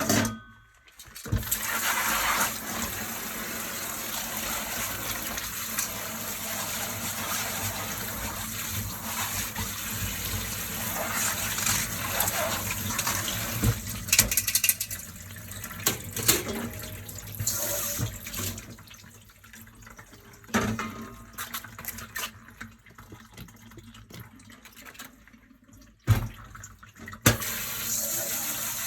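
Hand dishwashing at a kitchen sink: tap water running steadily over the dishes, with dishes clinking and knocking. Past the middle the water stops and only quieter handling and a few sharp knocks are heard, then the tap runs again near the end.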